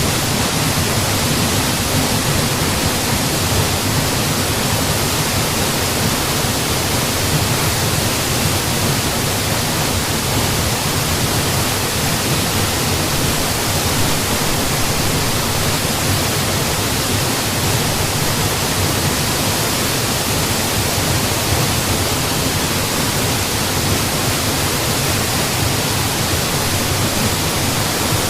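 Mountain waterfall: water falling and splashing in a steady, dense rush with no change in level.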